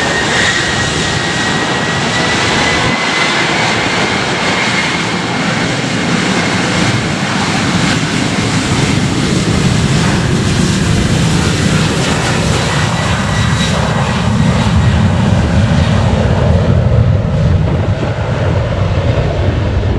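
Boeing 737-900ER's CFM56-7B jet engines at high thrust as the airliner departs. A whine rises at the start and then holds steady, and a low rumble grows louder in the second half.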